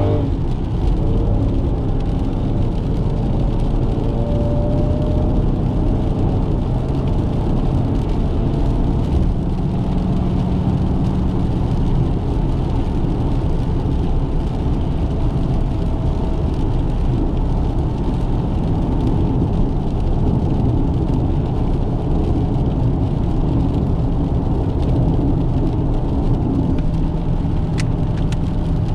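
2018 Dodge Challenger Scat Pack's 392 (6.4-litre) HEMI V8 running steadily while driving, with a constant roar of road and tyre noise and no hard revving.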